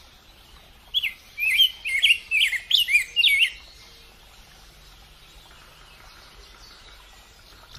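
A bird singing a quick run of short chirps, starting about a second in and lasting some two and a half seconds, over a faint steady background.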